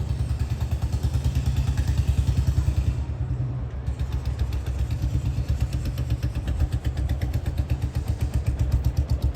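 Royal Enfield Bullet single-cylinder motorcycle running, its exhaust giving a fast, even low thump. It grows louder about two seconds in, eases briefly around three seconds, then holds steady.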